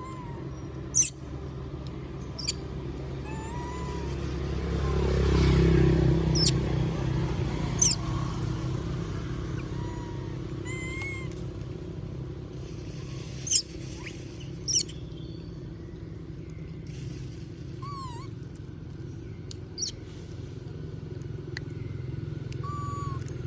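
A steady low engine hum that swells about five seconds in, like a vehicle passing, with sharp high chirps every few seconds and a few short, soft calls over it.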